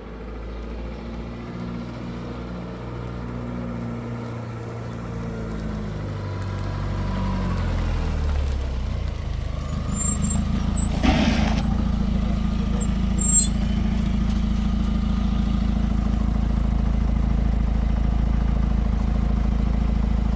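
Motor vehicle engine running, its pitch falling around seven to nine seconds in and then holding steady at a low even note, with one sharp knock about eleven seconds in.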